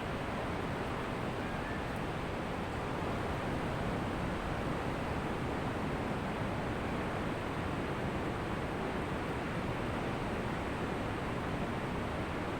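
Ocean waves washing onto the shore in a steady rush, with no distinct single crash standing out.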